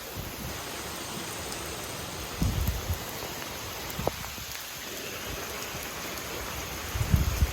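Heavy rain falling steadily during a thunderstorm, an even hiss throughout. Two brief low rumbling gusts come through, about two and a half seconds in and again near the end.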